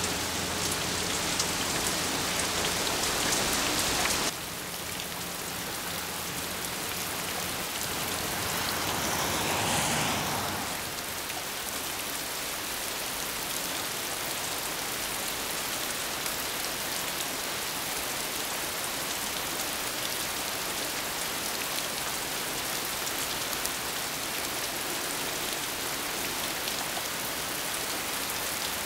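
Steady rain falling, louder for the first four seconds and then dropping suddenly, with a brief swell about ten seconds in.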